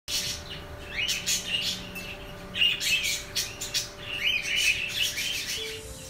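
Birds chirping in three bouts of quick, overlapping calls about a second and a half apart, over a faint steady hum.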